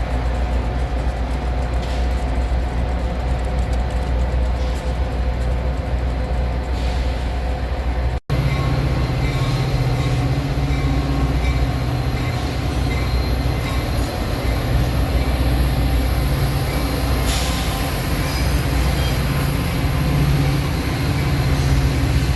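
Train running on the rails with a steady low drone. The sound cuts out for a moment about eight seconds in and resumes with a stronger low drone and a faint high whine.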